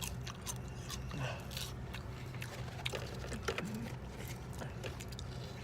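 A person biting into and chewing Cajun fries dipped in ranch sauce, with many small crisp clicks of crunching and chewing over a steady low hum.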